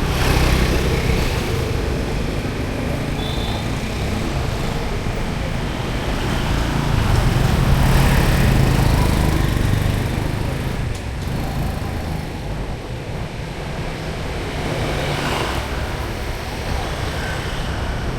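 Street traffic: vehicles running past close by, with a louder pass of an engine about eight seconds in and another near the end.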